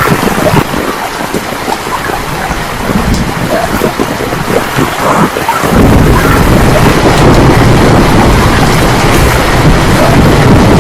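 Heavy rainstorm: torrential rain pouring steadily, with a loud deep rumble setting in about halfway through and holding.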